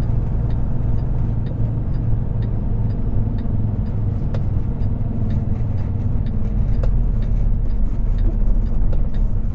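Semi truck's diesel engine running at low speed, heard from inside the cab as a steady low drone, with light ticks about twice a second.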